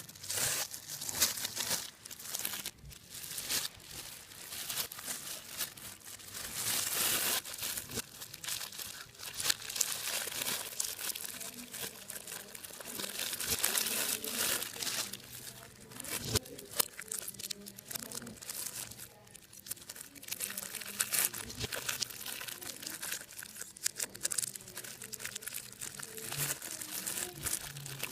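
Hands crumpling and tearing a brittle material: dense, irregular crinkling and crackling that swells and eases in uneven surges.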